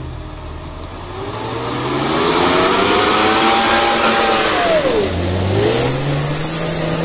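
Jeep Cherokee XJ's engine revving hard as it drives through deep mud. Its pitch climbs, drops sharply about five seconds in, then climbs again.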